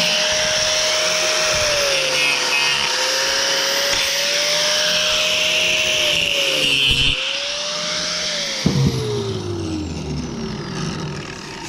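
Electric power tool with a blade cutting through copper. The motor pitch sags twice under load, then winds down and falls away near the end. The cut heats the copper enough to make it very hot.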